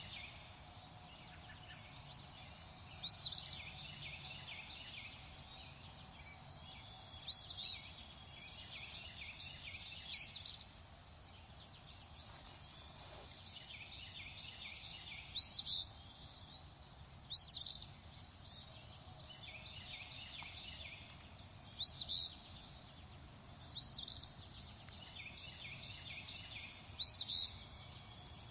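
Many small birds chirping and singing together in a dense chorus, with one louder, sweeping call repeating every few seconds.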